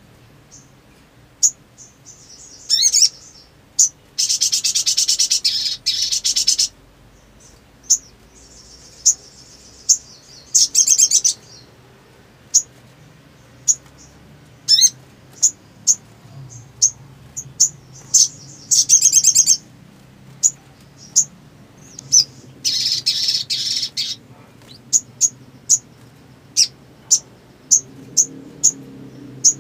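Sogok ontong (sogon), a small bird of the sunbird family, singing: sharp high chirps scattered throughout, broken by several longer buzzy trills of one to three seconds, with a quick run of chirps near the end.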